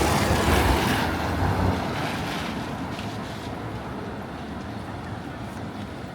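A train passing, its low rumble loud at first and fading away over about two seconds, leaving a steady, quieter wash of street noise.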